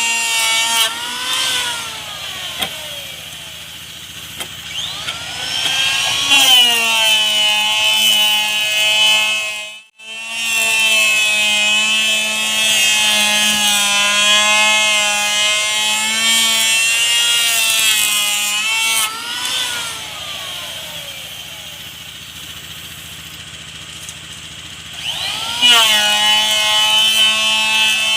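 A high-revving electric power tool cutting wood. Twice its whine sags in pitch for several seconds as the blade bites into the timber, then climbs back to full speed when it runs free. The sound cuts out sharply for a moment near the middle.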